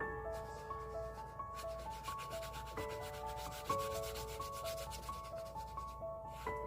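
Quick, rapid back-and-forth rubbing on paper, like the edges of a page being sanded or distressed, starting about a second and a half in and stopping near the end. Soft melodic background music plays throughout.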